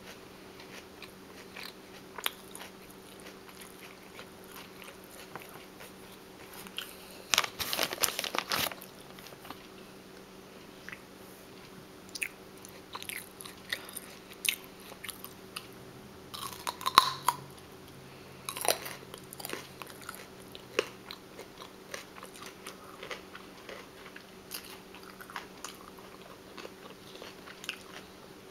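Close-up chewing of crunchy raw food: scattered crisp crunches, with louder runs of crunching about 8 and 17 seconds in.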